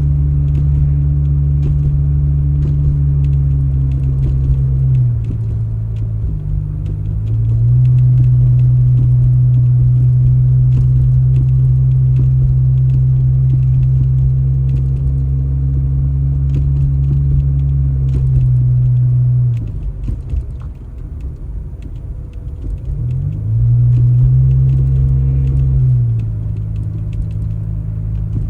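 A large engine running with a deep, steady hum. It drops back in speed about five seconds in, again near twenty seconds and near the end, and picks up again in between, as a machine does when clearing snow.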